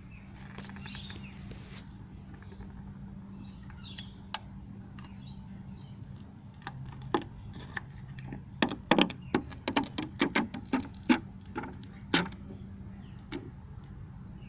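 A quick run of sharp clicks and knocks, a dozen or more over about four seconds, over a steady low hum.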